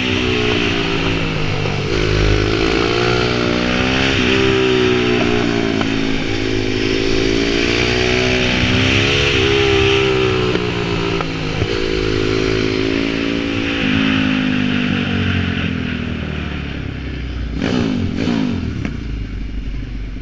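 Pit bike engine revving as it is ridden, its pitch climbing and dropping again and again with gear changes and throttle. Near the end it drops back and grows quieter.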